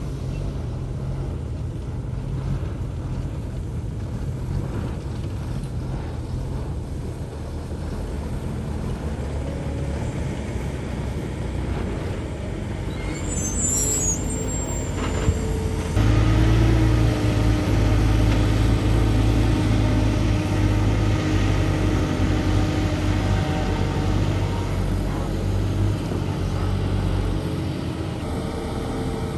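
Heavy diesel earthmoving machinery running: the steady low engine note steps up louder about halfway and holds under load, then eases off near the end. A brief high squeal comes just before the rise.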